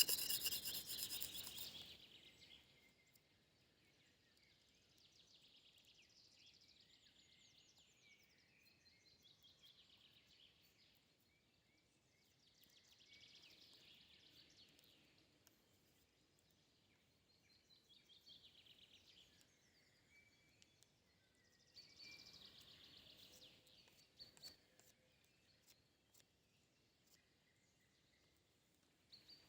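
A rasping, scraping sound that stops about two seconds in, then faint birdsong on and off.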